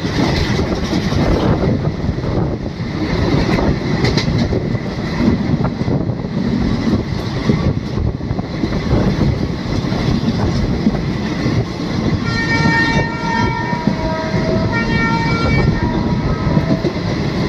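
Passenger train running along the track, heard from an open coach doorway: a steady, loud rumble of wheels on rails. About twelve seconds in, a train horn sounds for roughly four seconds, changing pitch partway through.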